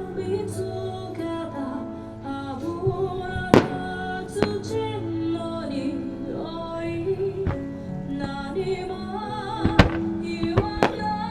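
Pop song with a female singer, over which fireworks shells burst in sharp bangs, the loudest about three and a half seconds in and near ten seconds.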